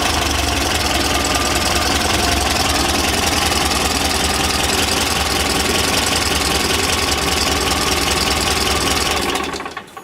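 Air-cooled four-cylinder petrol engine of a 1980 Steyr-Puch Pinzgauer 710 M idling steadily, then stopping near the end.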